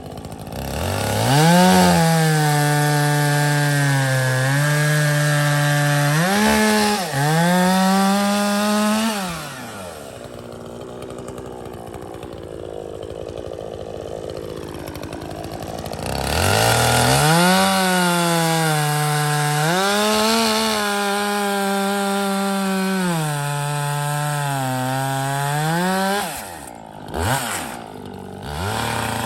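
Chainsaw bucking a log: it revs up and makes two long cuts, its pitch sagging and recovering under load, idling between them, then a few short throttle blips near the end.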